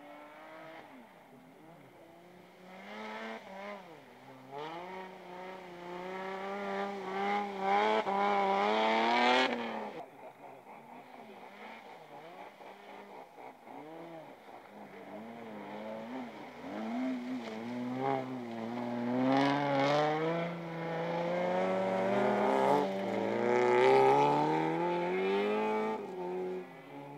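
Folkrace car engine revving hard through the gears, its pitch climbing and then falling back at each shift. It grows loud about eight seconds in and cuts back suddenly near ten seconds. It then builds again to its loudest near the end.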